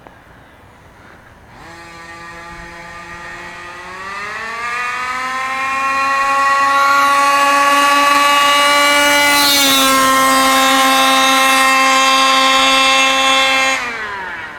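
Losi 5ive-T's 36cc Rovan two-stroke engine on a speed run. It comes in about a second and a half in at a lower note, climbs in pitch as the throttle opens, and holds a high, steady, loud note at full throttle for about seven seconds. Near the end the throttle closes and the pitch and loudness fall away.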